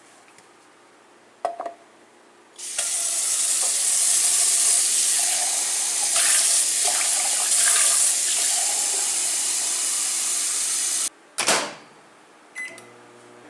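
Water tap turned on and running into a sink for about eight seconds, then shut off suddenly. A few small knocks come before it and a clunk just after.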